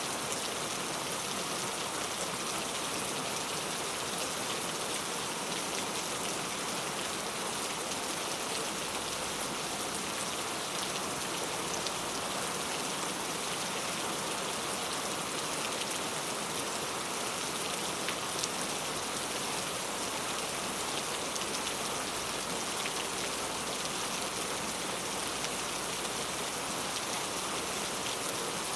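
Heavy rain falling steadily, a dense even hiss of drops with scattered sharper drop hits on hard surfaces.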